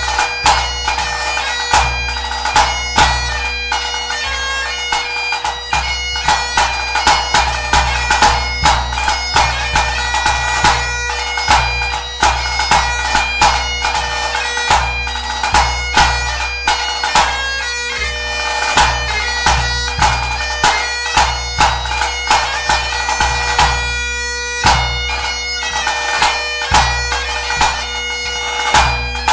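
Great Highland bagpipe playing a competition tune over its steady drones, with a pipe band bass drum beating time in regular low strokes beneath it.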